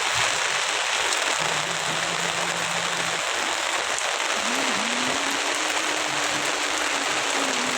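Steady rain falling, a dense, even hiss with no let-up. Faint low held tones come and go beneath it.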